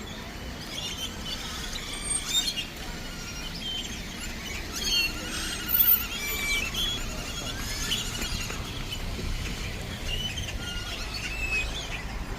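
A large flock of birds calling together from one tree: many overlapping high-pitched chirps and whistles.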